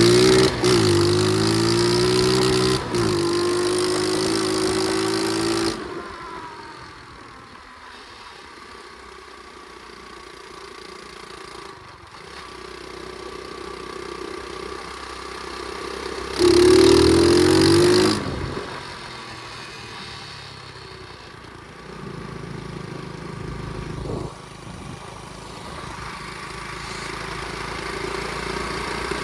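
Flywing pit bike engine under way: held at high revs for about the first six seconds with a couple of brief dips, then eased off to a low, quieter run. About 16 seconds in it revs hard again for a second or two, then settles back to low revs that slowly build.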